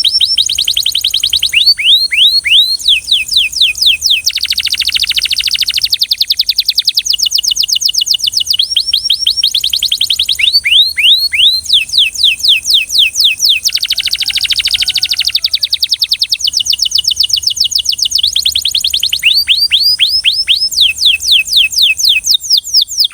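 Belgian canary singing a long continuous song of rapid trills: runs of fast repeated high notes, each run giving way to a different one every second or two. A steady high hiss sits underneath.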